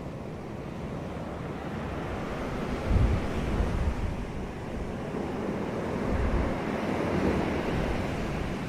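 Sea waves washing onto a beach: a steady surf wash that swells as a wave breaks about three seconds in, and again in the second half.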